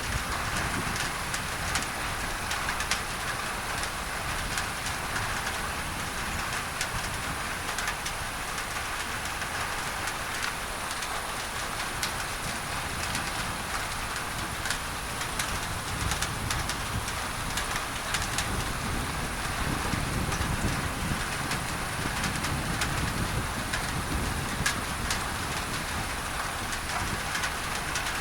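Steady rain drumming on a tin roof under an even hiss of masking noise, with many small drop ticks. A low rumble swells a little in the second half.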